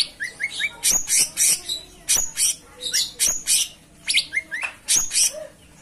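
Cucak cungkok singing in a rapid run of loud, sharp, high notes, two or three a second, some with short rising slurs.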